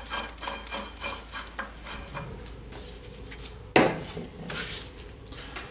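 Metal clinking and scraping as the lawnmower engine and tools are handled, with one sharp, louder clank a little under four seconds in.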